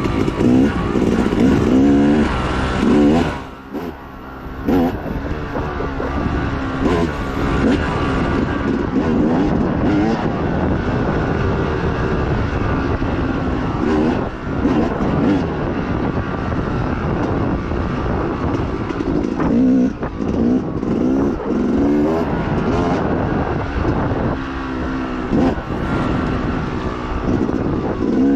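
Off-road dirt bike engine under hard riding, its revs repeatedly climbing and falling as the throttle is worked. The throttle backs off briefly about three and a half seconds in, then the engine picks up again.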